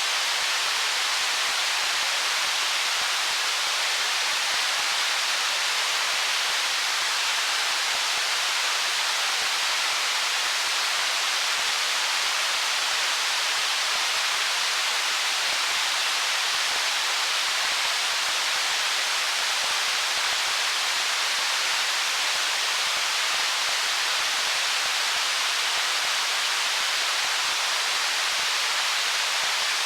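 Stream water flowing among stones: a steady, unchanging rushing hiss, its energy mostly high with little low rumble.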